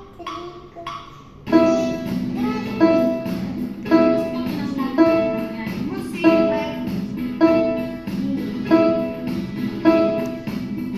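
Beginner piano piece played on a keyboard with a rhythmic backing accompaniment that starts about one and a half seconds in. Single melody notes sound about once a second over the steady beat.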